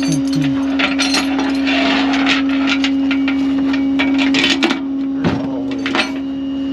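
Tow chains and hooks clanking and rattling irregularly as they are fitted under a pickup, over the steady hum of the running tow truck.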